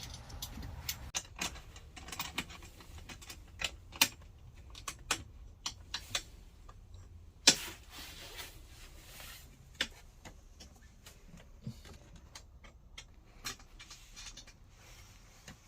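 Irregular light clicks and taps of small metal hardware and hand tools being handled while fitting a screw, with the sharpest click about halfway through.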